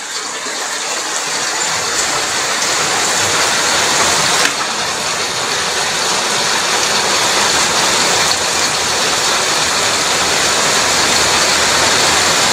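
Heavy rain pouring down, a steady rush of water that swells over the first second and then holds.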